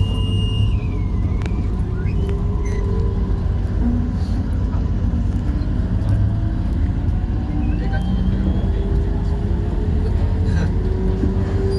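MRT train heard from inside the carriage: a steady rumble of wheels and running gear, with the whine of the traction motors gliding slowly up in pitch as the train gathers speed.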